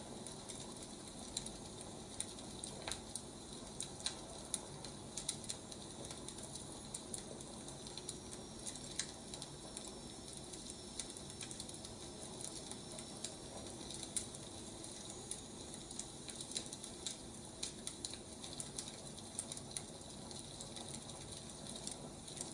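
Wood fire crackling softly: irregular small pops and snaps over a low hiss.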